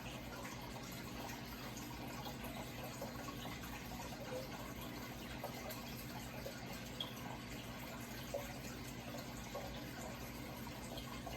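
Steady trickle of running water, with small splashes and drips dotted through it, over a constant low hum.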